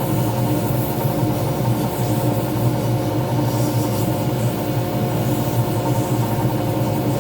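Small pen lathe running at steady speed: an even motor hum with steady whining tones and a light hiss, unchanging throughout.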